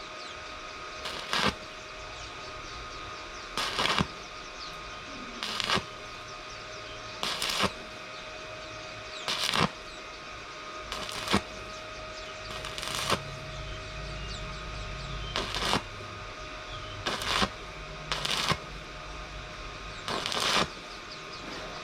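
Hammer blows on steel, struck in quick groups of two or three hits about every one and a half to two seconds, as in shaping or fitting sheet steel for a small boat hull.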